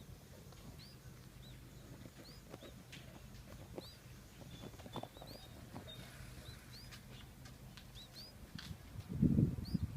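Nestling birds giving short, thin, high chirps over and over, about two a second, as they beg for food. Near the end, a loud low rustling noise starts.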